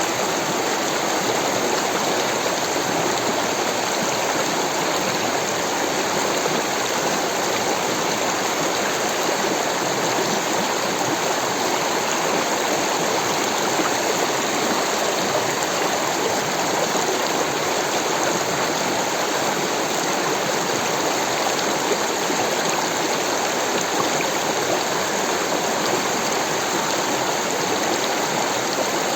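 Rushing water of a stream or small falls: a steady, even rush with no changes.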